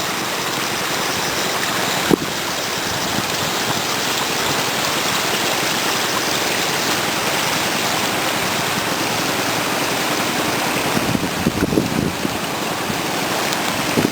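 Floodwater of a river swollen by typhoon rain, rushing steadily. A brief knock about two seconds in.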